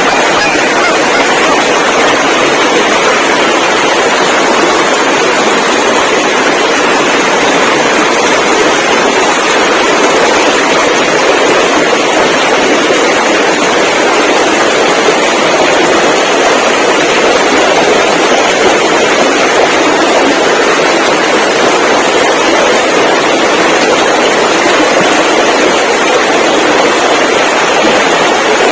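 A loud, steady rushing noise with no breaks or distinct events.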